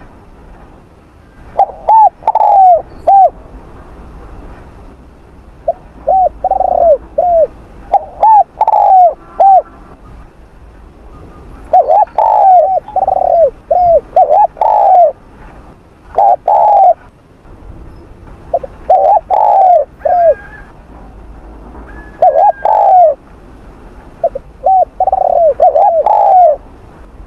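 Spotted dove cooing: repeated phrases of several short hooting notes, a phrase every two to four seconds, with a few faint higher chirps of other birds in the background.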